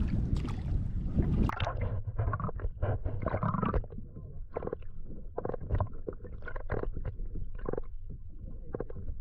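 Wind buffeting the microphone, cutting off abruptly about a second and a half in, then a series of short knocks and gurgling water sounds on the kayak over a low rumble.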